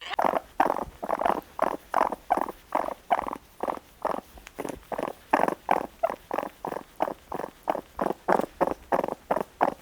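An animal making a fast, even series of short breathy sounds, about three a second.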